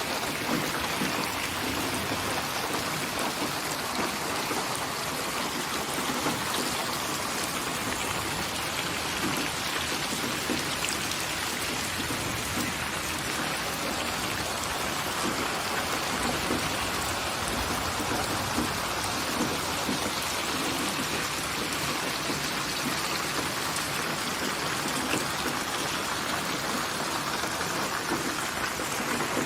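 Steady heavy rainfall: a continuous wash of rain with many individual drops ticking through it, unchanging throughout.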